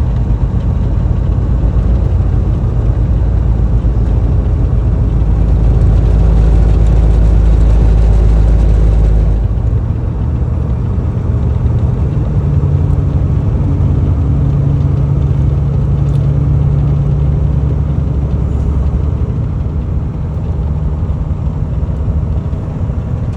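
Car driving along: steady engine and road rumble, easing off a little about nine seconds in.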